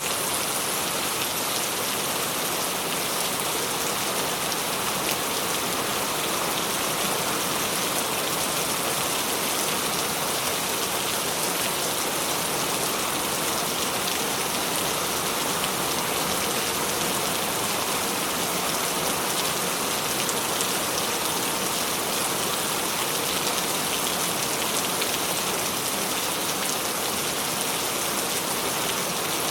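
Steady rain falling: an even, dense hiss of countless drops that does not change.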